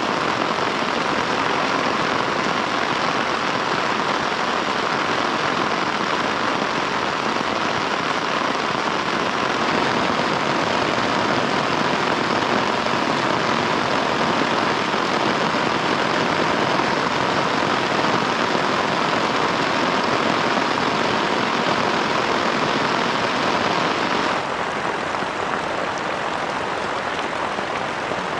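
Heavy rain, a steady dense hiss with no break. About 24 seconds in it changes abruptly to a slightly softer rain sound.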